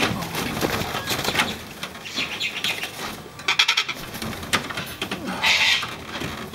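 Sulphur-crested cockatoos at close range: wing flapping and scattered clattering clicks, with a quick run of clicks midway and a harsh screech about five and a half seconds in.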